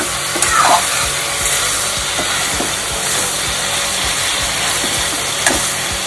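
Chicken curry frying in a pan: a steady sizzle with a few light clicks.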